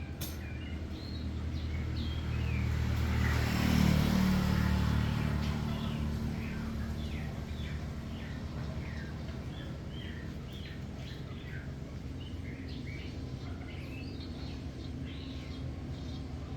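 Small birds chirping over a steady low engine hum. A motor vehicle passes, getting louder to a peak about four seconds in and then fading.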